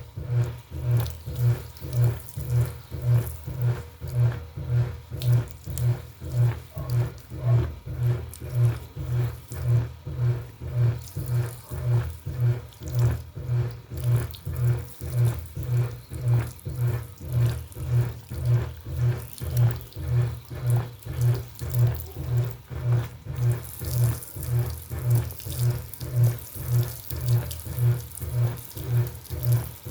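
Washing machine running: a low hum that pulses evenly about twice a second, with water sounds through it. A hiss of running water grows louder near the end.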